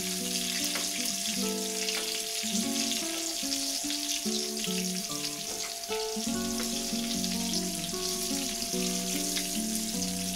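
Breaded chicken breasts sizzling and crackling steadily in shallow hot oil in a frying pan, with a spoon basting oil over them. Background music with a simple stepped melody plays underneath.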